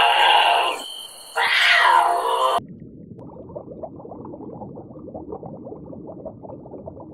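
Two loud animal calls, the second falling in pitch, then an abrupt cut to a quieter, rough low sound made of many small rapid calls.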